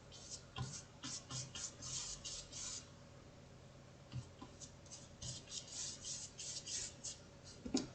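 Large paintbrush rubbing white gouache onto paper to prime the sheet: faint, short scratchy strokes about three or four a second, in two runs with a pause of about a second and a half between them.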